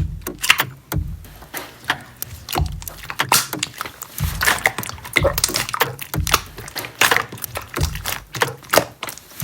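Slime being pressed and squeezed by hand, giving crackling clicks and small pops with a soft low thud about once a second.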